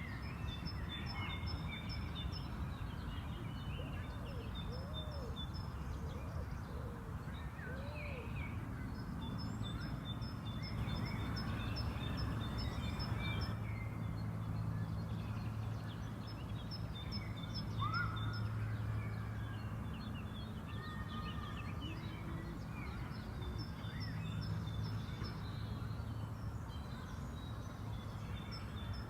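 Spring park ambience: several birds singing and chirping, one repeating a quick run of high notes every few seconds, over a steady low background hum.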